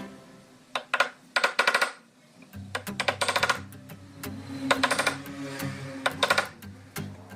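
Several bursts of rapid small clicking and rattling, a second or two apart, over background music.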